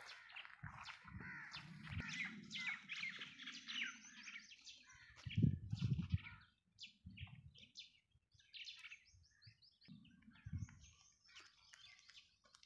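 Small birds chirping and twittering in a busy chorus, with a few low thuds, the loudest about halfway through.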